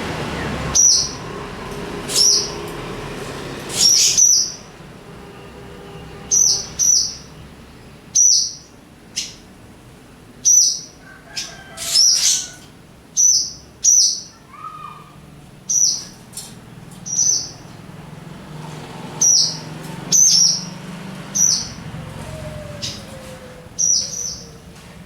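Swallows giving short, sharp, high calls about once a second, irregularly spaced: alarm calls of a pair defending their mud nest as they swoop.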